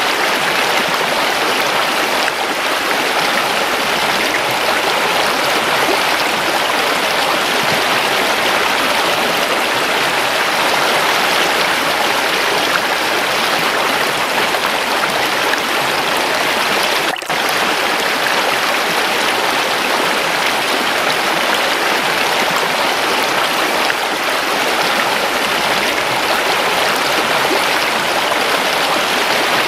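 Waterfall running water: a steady, dense rushing. It is broken by a split-second dropout a little past halfway.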